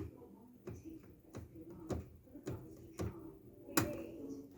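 Bosch washing machine running, with a steady hum and a sharp knock about every two-thirds of a second, the loudest near the end.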